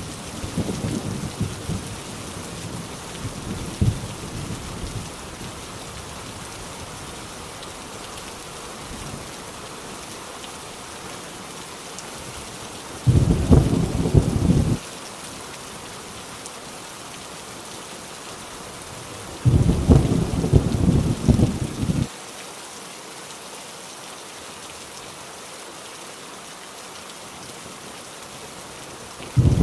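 Heavy rain drumming steadily on a rusty tin roof, with rolls of thunder: one fading away over the first few seconds, then loud rumbles about 13 and 20 seconds in, and another starting right at the end.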